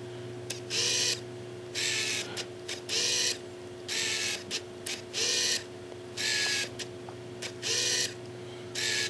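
Tamron 28-75mm f/2.8 SP XR Di LD lens autofocus motor buzzing in short bursts about once a second, each about half a second long, as it drives the focus back and forth. Faint clicks fall between the bursts.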